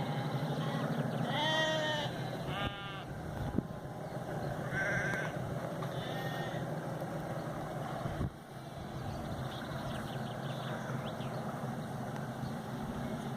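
Sheep bleating about four times in the first seven seconds, over a steady low rumble.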